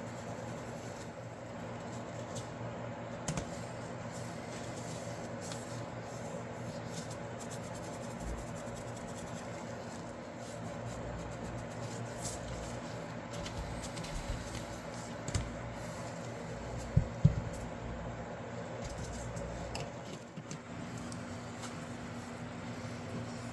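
Small handling noises at a workbench, light clicks and taps of tools and materials, over a steady low hum. Two sharp knocks come close together about 17 seconds in.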